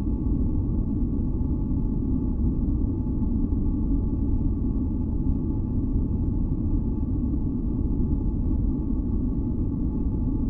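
Steady, deep rumbling masking noise, weighted toward the low end, with faint steady tones held above it: an unchanging sleep noise track.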